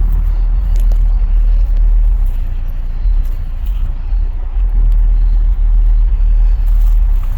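Loud, steady deep rumble from a show truck, its energy almost all in the low bass.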